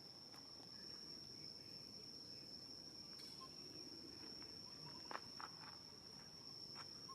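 An insect's faint, steady high-pitched buzz, held unbroken, over quiet outdoor background with a few soft clicks about five seconds in.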